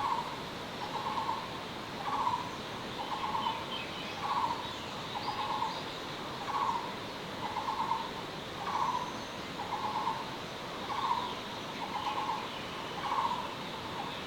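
An animal calling over and over in short, evenly spaced notes, about one a second, over a steady rushing hiss of river water.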